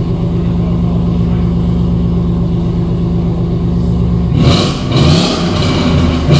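Ford Mustang GT's V8 idling steadily through a decatted, straight-piped mid-section exhaust, with a deep, even rumble. About four seconds in it is cut off abruptly by louder music.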